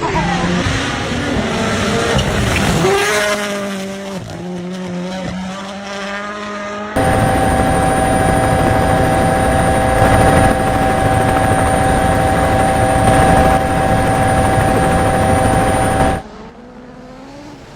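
Rally car engines revving up and down with shifting pitch. About seven seconds in, this gives way abruptly to a steady, unchanging engine note held for about nine seconds, which cuts off suddenly and leaves a quieter stretch near the end.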